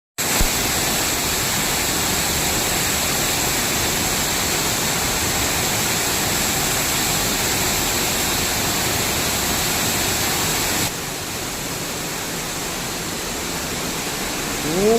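Steady rush of water pouring down an artificial waterfall, dropping a little in level about eleven seconds in.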